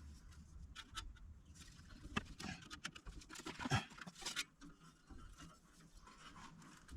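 Faint, irregular clicks and scratches of steel tie wire being wrapped and pulled tight around a muffler pipe.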